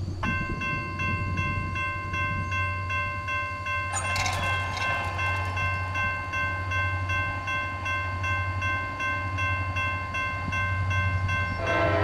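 CSX EMD GP38-2 freight locomotive sounding its air horn in one long steady blast as it approaches, over the low rumble of its diesel engine. The horn chord grows fuller and louder near the end.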